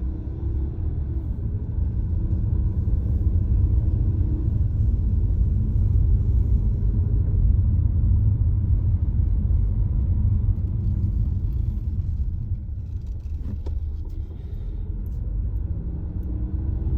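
Car driving, heard from inside the cabin: a steady low engine and road rumble with a faint engine hum. The rumble eases for a few seconds past the middle, and a single click comes about thirteen seconds in.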